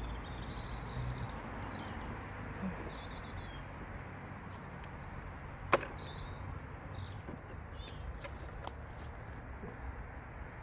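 Small birds chirping in short high calls over a steady outdoor background hiss. There is a sharp knock about six seconds in and a fainter one near nine seconds.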